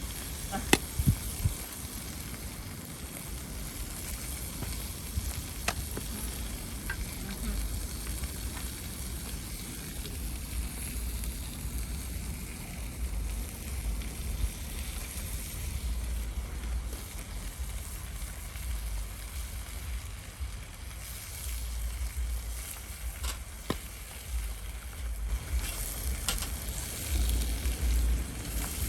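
Food sizzling as it cooks over a wood fire, a steady frying hiss broken by a few sharp crackles or clicks. A low rumble runs underneath.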